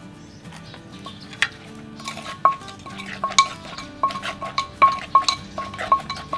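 Papaya salad being pounded and tossed in a mortar: repeated sharp knocks, each with a short ring, starting about a second and a half in and then coming two or three a second.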